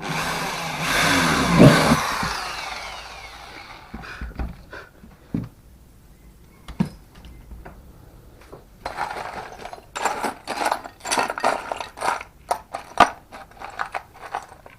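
A power tool runs loudly and spins down, its pitch falling, within the first two seconds or so. After that come scattered sharp metal clicks and knocks as small steel clamp parts and bolts are handled, most frequent near the end.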